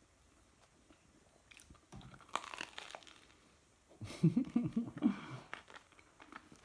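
A person chewing and biting crunchy pizza crust close to the microphone, in two bouts, the second louder and mixed with a muffled hum from the eater's closed mouth.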